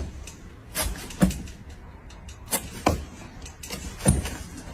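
A handful of sudden knocks and clicks at uneven intervals.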